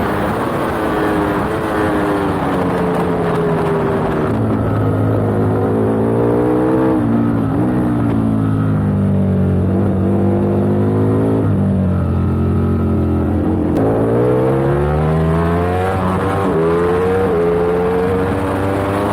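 Superbike engine heard from an onboard camera at race pace. Its pitch falls in steps through the first half as the bike slows and changes down, then climbs again in the second half, with brief dips at each upshift.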